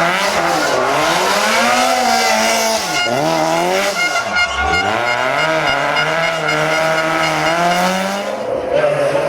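Lancia 037 Group B rally car's supercharged four-cylinder engine at full throttle on a stage, revs climbing and dropping through gear changes. The pitch falls deeply about four and a half seconds in as the driver lifts off, then pulls up steadily for several seconds before another change near the end.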